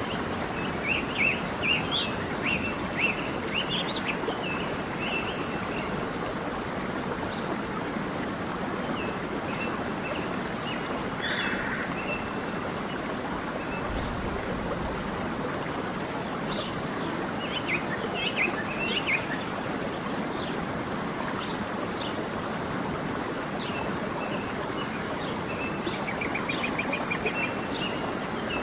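A stream running steadily, with small birds chirping over it in several short bouts and a quick trill near the end.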